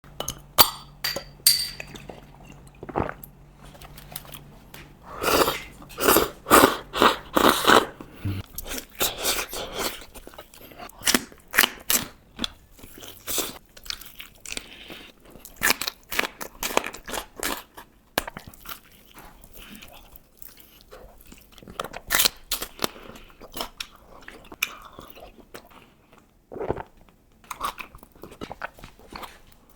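Close-miked mukbang eating: crisp food bitten and chewed, with sharp wet crunches in irregular runs. The loudest run comes a few seconds in, at about two crunches a second.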